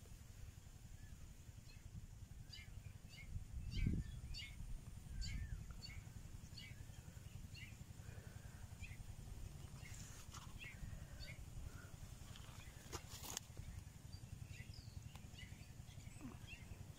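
Small birds chirping in short, scattered calls over a steady low rumble, with a brief low thump about four seconds in.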